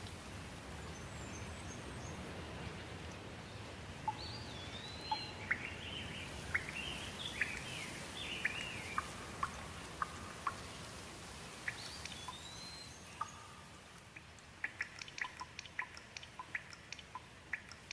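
Songbird singing over a steady water hiss: whistled phrases that rise and fall, then a quick run of short sharp ticks near the end as the hiss eases.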